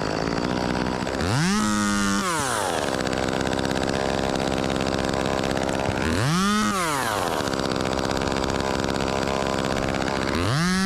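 Two-stroke chainsaw idling, revved to full throttle and back down three times in quick one-second bursts, as branches are cut.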